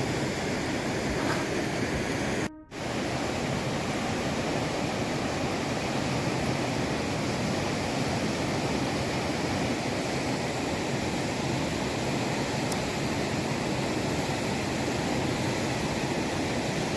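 Steady rushing sound of water, with a brief drop-out about two and a half seconds in.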